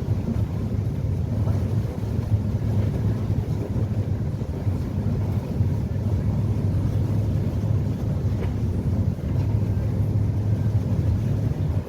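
Passenger catamaran ferry under way: its engines running with a steady low drone, under an even rush of wind and water noise.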